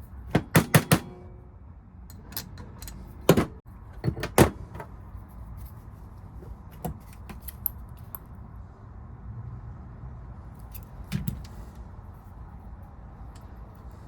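Small metal valve parts clicking and clinking as they are handled. There is a quick run of about four clicks at the start, two louder knocks around three to four seconds in, and scattered lighter ticks after.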